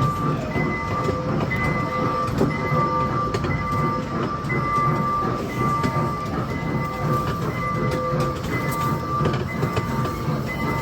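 Small ride-on mall train running steadily with passengers aboard: a continuous low rumble, with a thin high tone that keeps breaking off and coming back over it.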